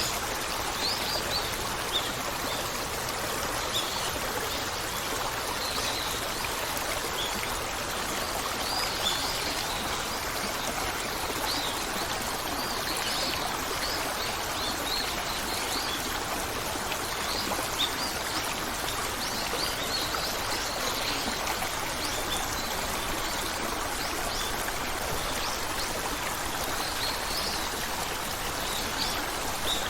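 Stream of running water, a steady rushing trickle, with faint short high-pitched chirps scattered throughout.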